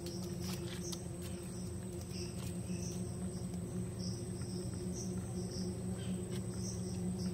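Insects chirping in short high calls that repeat about once or twice a second, over a steady low hum and a thin steady high tone, with a few faint clicks.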